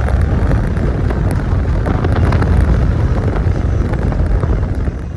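Car driving on the road: a loud, steady low rumble of road and engine noise with wind buffeting the microphone, easing a little near the end.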